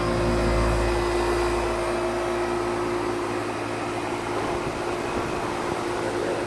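Outdoor air-conditioner condensing unit with a Copeland reciprocating compressor running, a steady hum with a constant tone over the whirr of the fan. A deep rumble is strongest for the first couple of seconds and then eases off.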